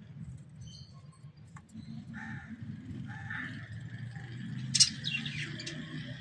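Birds chirping in short repeated calls over a steady low rumble, with one sharp, loud call or click about three-quarters of the way through.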